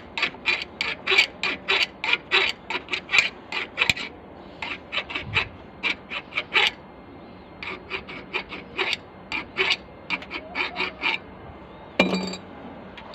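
Rapid back-and-forth scraping strokes of a hand tool, about three a second, in runs broken by short pauses. A single knock comes near the end.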